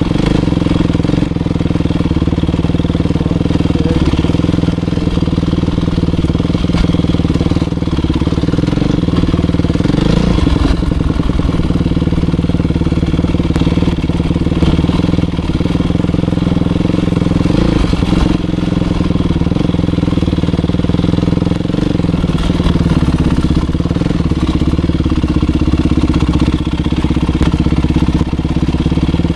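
Motocross bike's engine running at a fairly steady speed, with brief changes in pitch about ten and eighteen seconds in.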